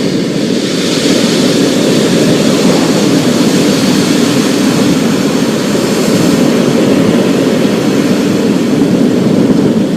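Thunderstorm ambience: a steady wash of rain and wind with a continuous low rumble underneath.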